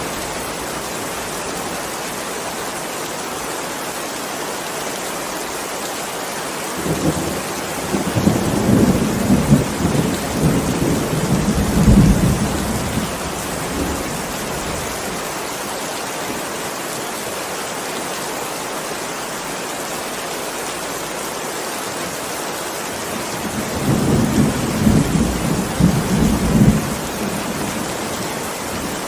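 Heavy rain falling steadily, with thunder rumbling twice: a long roll from about seven seconds in, and a shorter one near the end.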